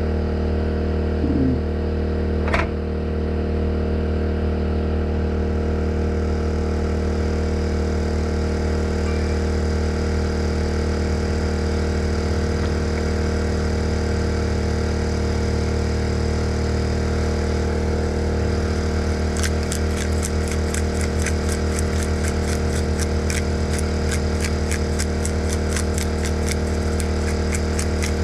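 Portable generator engine running steadily, with a single click about two and a half seconds in. From about twenty seconds in, a fast regular ticking of about three a second joins it.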